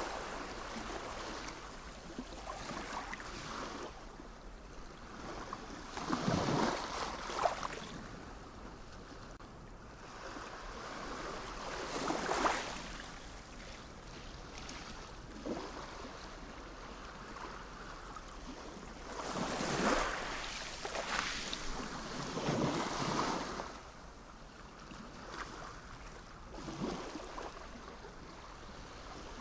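Sea waves surging and breaking in an uneven rhythm, a louder wash swelling up and fading every several seconds over a steady background rush of surf.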